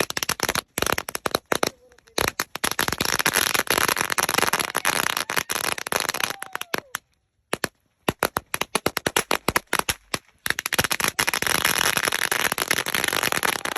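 A whole brick of Shogun firecrackers going off in a fire: a dense, rapid chain of sharp bangs and crackles, with a brief stop about seven and a half seconds in before the string resumes.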